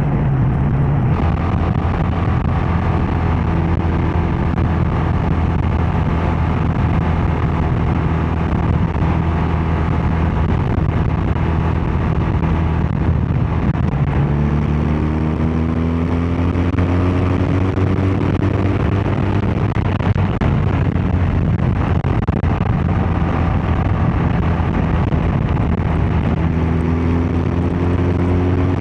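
BMW R12 nineT's air/oil-cooled boxer twin running steadily on the move, its pitch rising as the bike accelerates about halfway through and again near the end.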